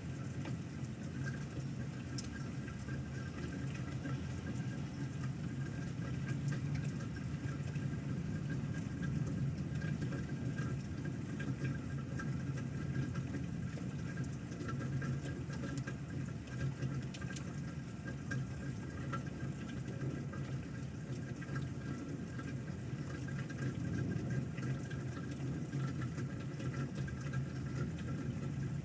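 Steady rain from a thunderstorm, with water running, holding at an even level.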